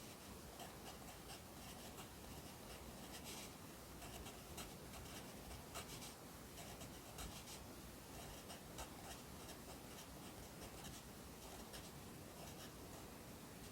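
Pencil writing Korean characters on paper: faint, irregular scratching strokes.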